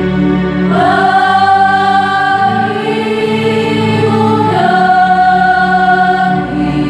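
Choir singing in parts, holding long sustained chords; the chord shifts about a second in and again past the four-second mark.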